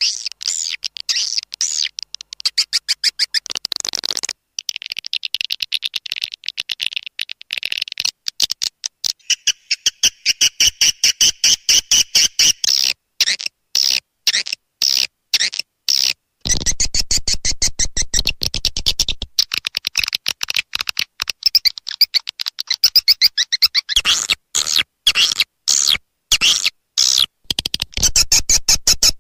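Swiftlet lure call recording: swiftlets' rapid chittering trills, fast trains of clicks and buzzy chirps with short pauses between bursts, played to draw birds into a swiftlet house.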